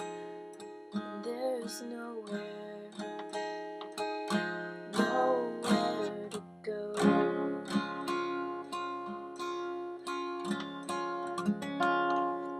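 Acoustic guitar strummed in an instrumental passage, chords ringing on with regular strokes.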